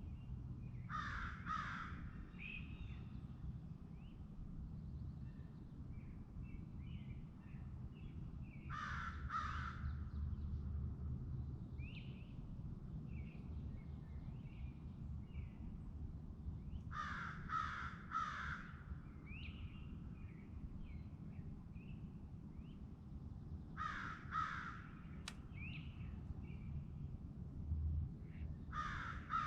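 Crow cawing in groups of two or three harsh calls, about every seven or eight seconds, with smaller birds chirping faintly in between over a low steady rumble.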